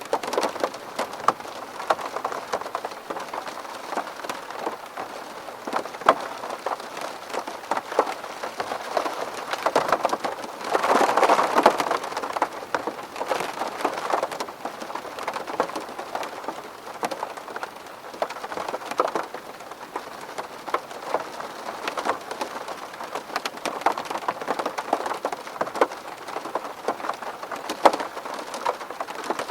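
Rain hitting a window: a dense, steady patter of individual drop ticks over a soft hiss, swelling heavier for a couple of seconds about eleven seconds in.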